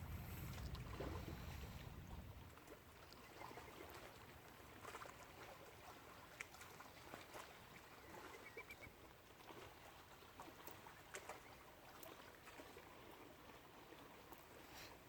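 Faint lakeside ambience: soft water lapping with small scattered ticks and a few faint high chirps. A low wind rumble dies away after about two seconds.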